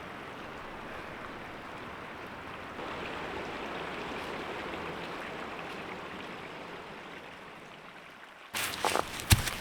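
Creek water running in a steady, even rush. Near the end it gives way abruptly to close, sharp knocks and rustling.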